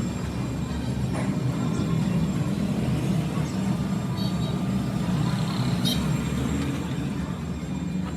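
Workshop machinery running steadily with a low hum, with a couple of faint ticks over it.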